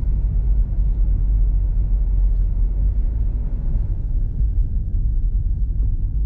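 An SUV driving on a snow-covered road: a steady, loud low rumble of engine and tyres on the snow.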